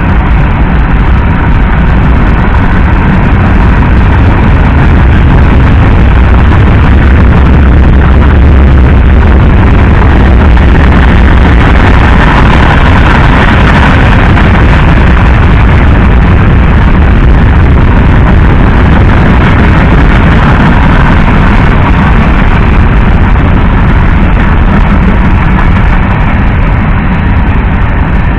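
Freight train cars, from open cars to covered hoppers and tank cars, rolling past on steel wheels over the rail: a loud, steady rumble that goes on unbroken.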